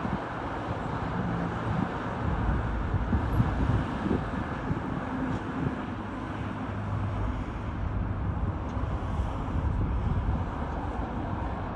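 Airport outdoor ambience: a steady rumble of distant jet aircraft engines, with wind buffeting the microphone.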